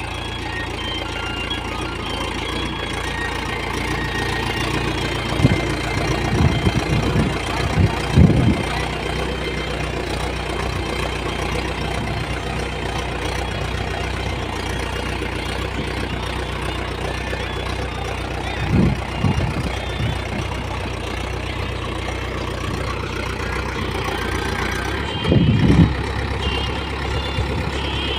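Trakstar 545 tractor's diesel engine running steadily while working, with short louder clattering bursts three times: about six to eight seconds in, around nineteen seconds, and around twenty-five seconds.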